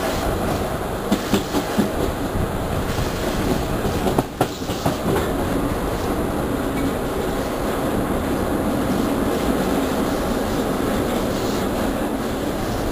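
Passenger train running along the track: a steady rumble of wheels on rails, with a few sharp clicks of the wheels over the rails about a second in and a short cluster around four seconds.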